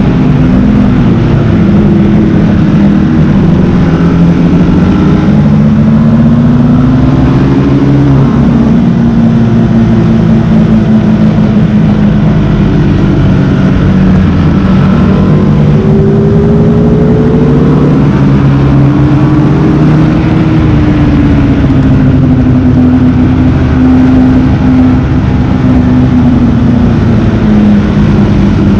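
Sport motorcycle engine running hard at track pace. Its pitch climbs and falls every few seconds as the bike accelerates and slows.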